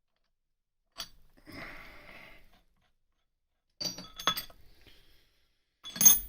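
Metal objects handled and set down: a single click, a short rustle, a few sharp clinks, then a loud ringing metallic clink near the end.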